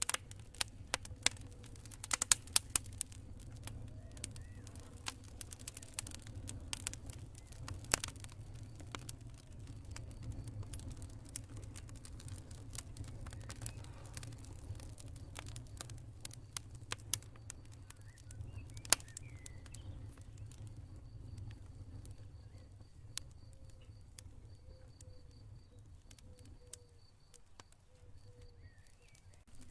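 Campfire burning: irregular sharp pops and snaps of wood over a low steady rumble, busiest in the first eight seconds and sparser later. From a little past halfway, a cricket chirps faintly in a steady high pulsing.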